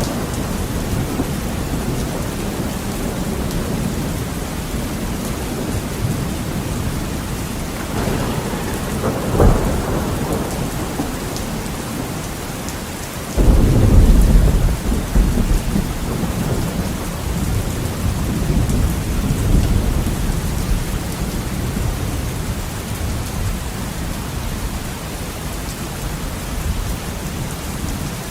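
Heavy rain falling steadily on a window, with thunder: a short rumble and sharp crack about nine seconds in, then a loud peal that starts suddenly about halfway through and rumbles away over several seconds.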